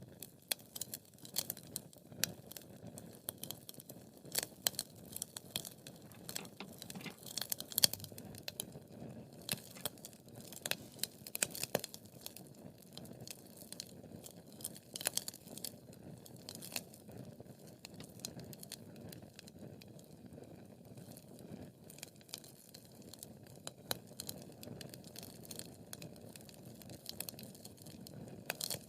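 Wood fire crackling and popping: irregular sharp snaps over a low steady rush of flame, with a few louder pops.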